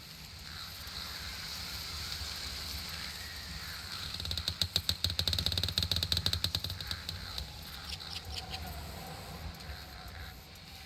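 Summer outdoor nature ambience: a steady high hiss with a low rumble underneath, and an animal's rapid rattling call that runs from about four to seven seconds in, followed by a few short high chirps.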